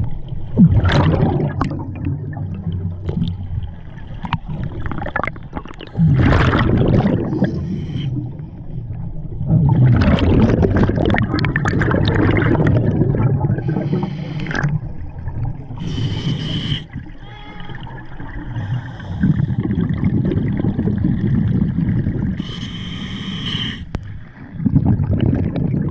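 Scuba diver's breathing through a regulator underwater: long rumbling, gurgling bursts of exhaled bubbles lasting a few seconds each, with shorter hissing inhalations between them.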